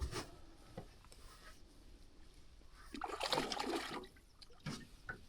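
Water sloshing and splashing briefly, about three seconds in, against an otherwise quiet background.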